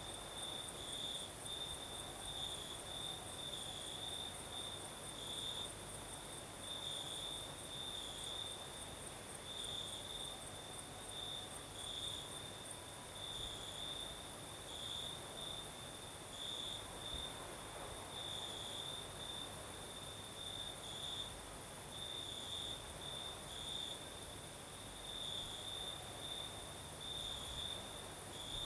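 Crickets singing at night in a steady chorus: one continuous pulsing chirp with a second insect's faster, higher trill above it.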